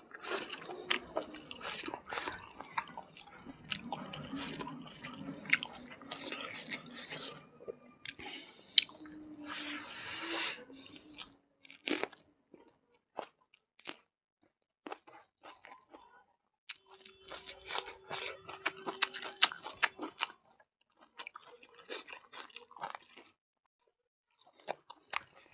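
A person eating close to the microphone: wet chewing with irregular crunchy bites, in clusters with short quiet pauses.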